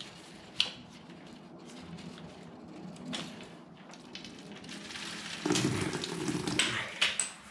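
Gasoline being drained out of a motorcycle fuel tank, trickling, with a few light handling clicks; the flow grows louder for about two seconds near the end.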